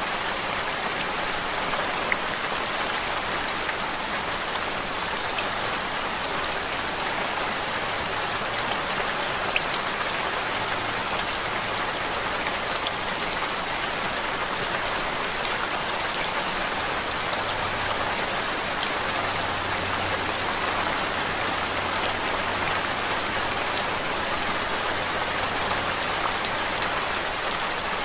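Steady rain falling on a surface, a continuous hiss flecked with fine drop patter, used as a white-noise background.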